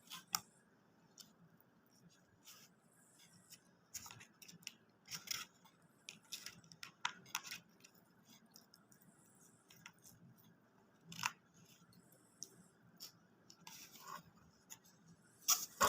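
Eating sounds of fast food: scattered short crunches and clicks of chewing, irregular, with a louder one about 11 s in and a pair near the end.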